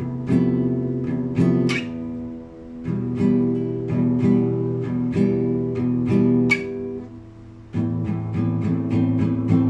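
Classical guitar played solo in arpeggios: notes plucked one after another and left to ring together as chords. It dies down twice, then picks up near the end with quicker notes, about four a second.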